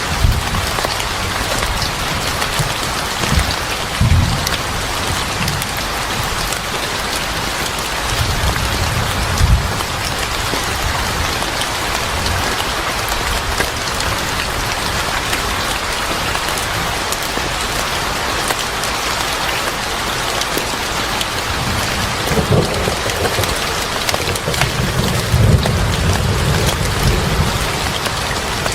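Steady heavy rain falling, with low rolls of thunder rumbling in several times, the longest and strongest near the end.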